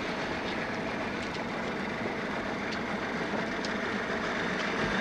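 Steady running noise of a boat under way, with a faint steady engine hum.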